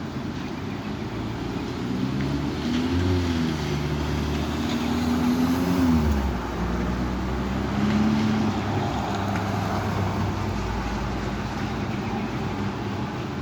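A motor vehicle's engine running as it drives past, its pitch rising and falling a few times, over a steady background rush of noise.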